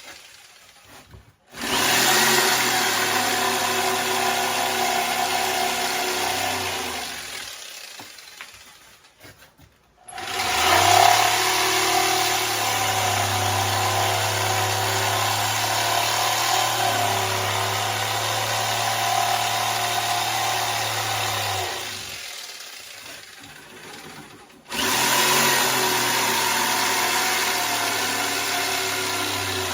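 Electric jigsaw cutting a wooden board, run in three long stretches. It starts about a second and a half in and stops after about six seconds. It runs again from about ten seconds in for some twelve seconds, then starts once more near the end.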